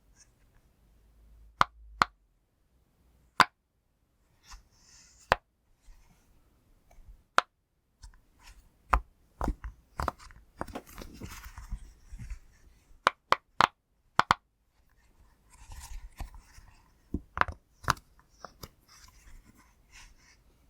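Pop toy being pressed by hand: sharp pops at irregular intervals, a few sparse ones at first, then quicker runs, with soft rubbing and handling sounds between them.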